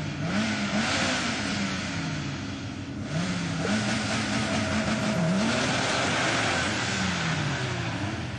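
Drag racing cars revving at the start line, then launching and accelerating hard away down the strip, the engine note climbing and dropping back again and again as they shift up through the gears.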